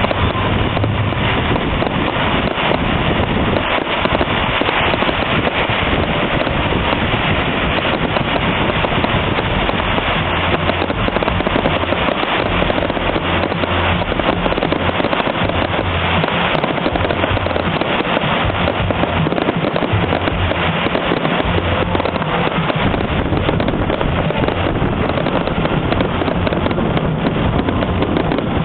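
Fireworks going off in a dense, unbroken barrage of bangs and crackle, the loudness holding steady with no lulls.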